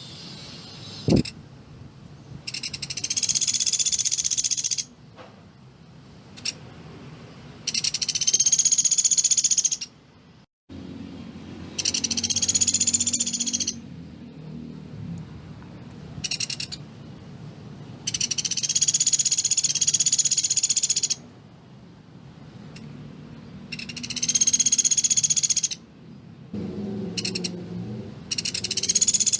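Pelatuk beras calling in repeated rapid high trills, each burst lasting about two to three seconds and recurring every four to six seconds, with a few short single notes in between.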